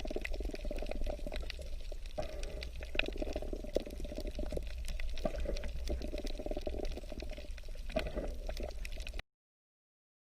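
Running water pouring and splashing steadily, with many small splashes, like a small stream over stones. It cuts off abruptly about nine seconds in.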